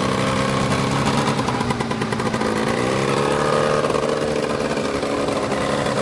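Vehicle engine running steadily, then rising in pitch about two and a half seconds in and holding at the higher speed as it is revved or put under load.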